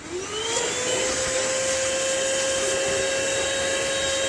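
Handheld car vacuum switched on: its motor whine rises in pitch over about a second as it spins up, then runs steadily with a rushing hiss as it sucks up dirt.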